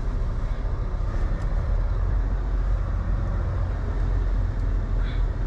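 Semi-truck's diesel engine running at low speed during a slow turn, a steady low rumble heard from inside the cab.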